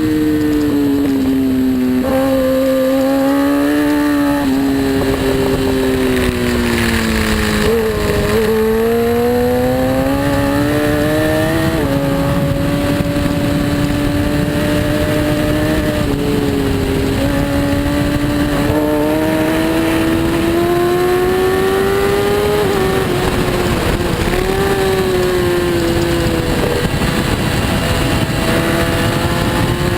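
Superbike racing engine at race pace, revs climbing and falling without a break, with sudden steps in pitch at gear changes.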